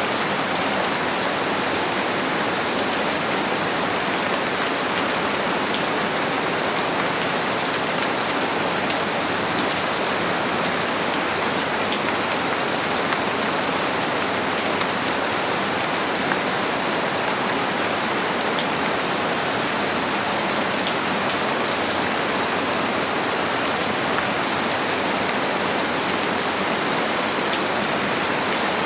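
Steady rain falling, an even hiss of drops on a surface with fine patter, no thunder.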